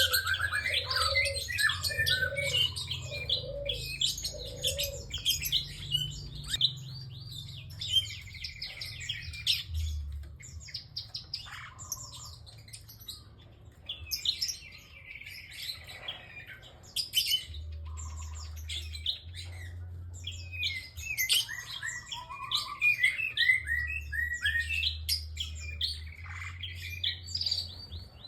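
A prenjak (prinia) singing: rapid, high chirping phrases that come in bursts separated by short pauses. In the first few seconds a run of about five lower notes sounds under the chirps, and a faint low hum lies beneath throughout.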